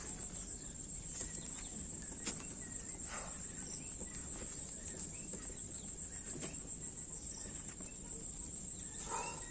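Outdoor ambience with a steady high-pitched insect drone, like crickets, with a few faint knocks.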